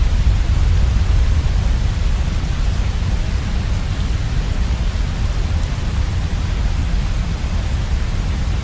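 Heavy waterfall: a steady, unbroken rush of falling water with a deep rumble underneath.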